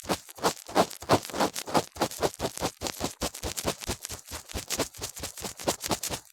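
Ear-cleaning tool scraping and scratching inside a silicone ear model close to the microphone, in quick repeated strokes several times a second.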